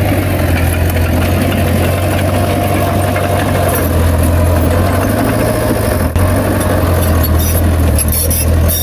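Heavy diesel engine of earthmoving machinery running steadily with a deep hum. The sound cuts out for an instant about six seconds in.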